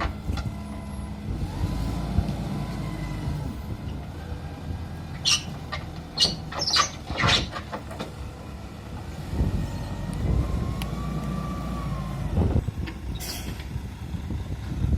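A heavy vehicle engine running steadily, with a burst of sharp metallic clanks and squeaks in the middle and a held higher whine a few seconds later.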